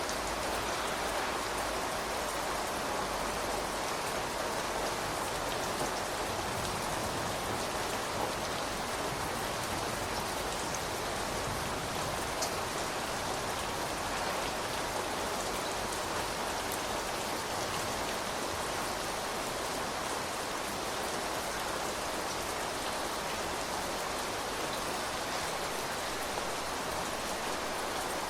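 Steady rain falling, with raindrops pattering on surfaces and a few separate drips standing out now and then.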